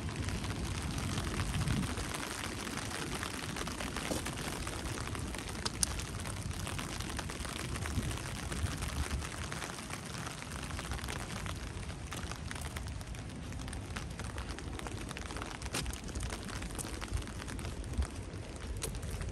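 Steady rain falling, with a few sharper ticks of single drops landing close by.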